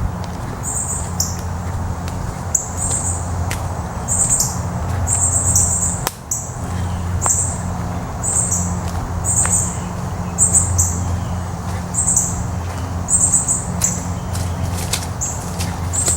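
Woodland ambience: short, high-pitched chirps in quick clusters repeat about once a second over a steady low rumble, with a few scattered clicks.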